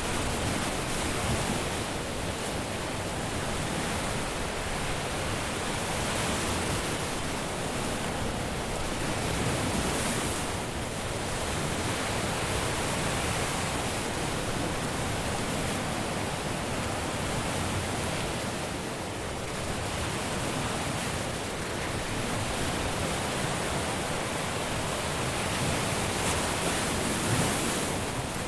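Caribbean surf washing onto a beach, a steady rush of breaking waves that swells and eases gently every few seconds.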